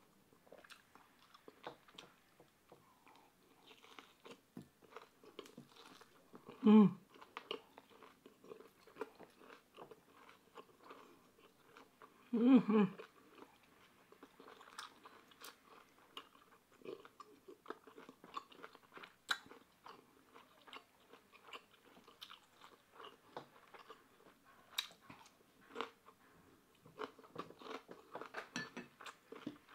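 Close-miked chewing and crunching of pork belly, kimchi and cucumber, with many small wet mouth clicks. Two short hums, a few seconds apart in the first half, are the loudest sounds.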